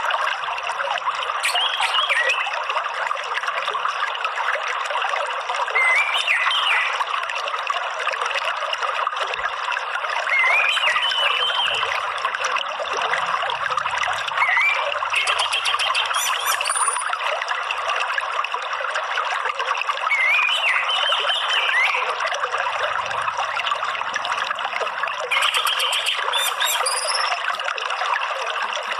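Steady trickling, flowing water, with short bird chirps every four or five seconds and a few higher calls, typical of an orange-headed thrush (anis merah).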